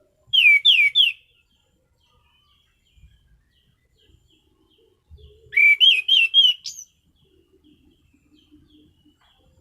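Orange-sided thrush (anis cendana) singing: a quick phrase of three loud downslurred whistles just after the start, then a longer phrase of several whistled notes about five and a half seconds in, ending on a high upslurred note.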